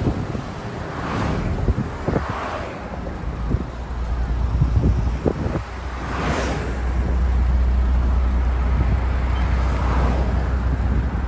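Road traffic passing, with several whooshes of vehicles going by, under a steady low rumble of wind on the microphone and a few knocks.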